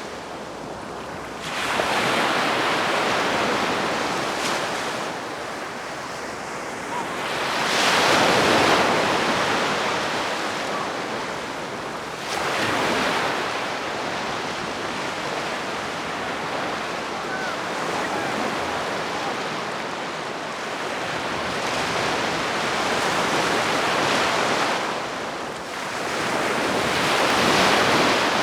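Calm sea waves breaking gently on the beach. Each wave's wash swells and fades, about five times, every five seconds or so.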